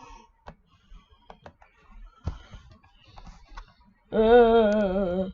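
Scattered light clicks and taps, then about four seconds in a loud held pitched sound with a slowly wavering pitch, which stops abruptly.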